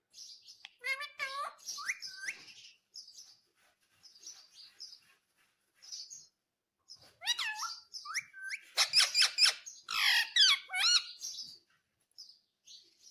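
Indian ringneck parrot chirping and squawking in short bending calls: a brief cluster in the first couple of seconds, then a louder, busier run of calls from about the middle to near the end.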